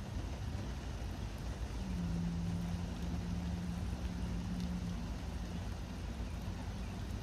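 Vehicle engine running: a steady low rumble with a hum that drops slightly in pitch about two seconds in and fades about five seconds in.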